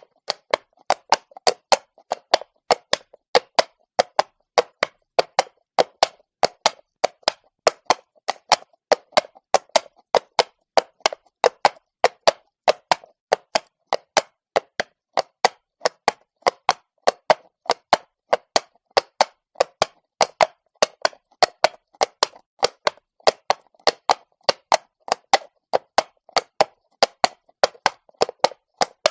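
Horse walking on stone, its hooves clopping in a steady walking rhythm of about three sharp strikes a second.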